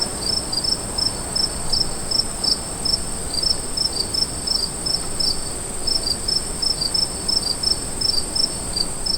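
Insects chirping: a steady high-pitched buzz with short chirps repeating about three times a second, over a faint background hiss.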